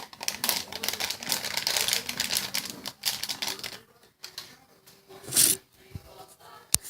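Rapid crinkling and crackling of a plastic cake-mix packet being handled, dense for about three seconds, then sparser rustles with a short burst and a sharp click near the end.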